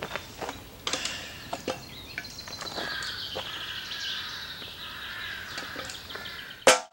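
A bird calling over and over in short repeated notes, after a few sharp crunching steps on gravel in the first couple of seconds. Just before the end comes a sudden loud burst that cuts off abruptly.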